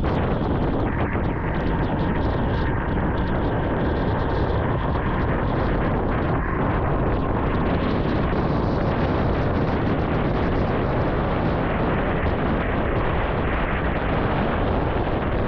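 Steady wind rush and road noise on the microphone of a vintage Yamaha motorcycle on the move.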